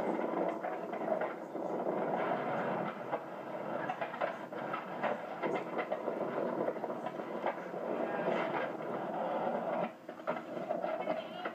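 Skateboard wheels rolling over pavement: a steady rumble broken by many short clicks and clacks from the board, dipping briefly about ten seconds in.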